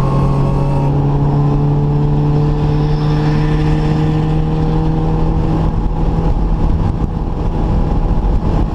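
Classic Mini's A-series four-cylinder engine running hard at high revs, heard from inside the cabin. Its note sags slightly over the first five seconds and then softens a little, with steady road and wind noise underneath.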